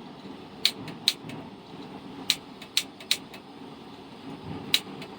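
Portable gas camp stove burner running with a steady low rush, with about six sharp clicks scattered irregularly over it.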